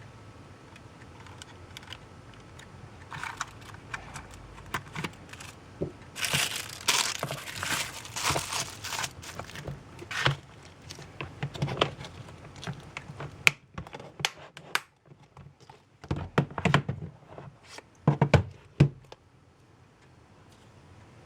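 Packaging of an N-gauge model train set being handled: plastic or paper crinkling for a few seconds, then a run of sharp clicks and knocks in the second half.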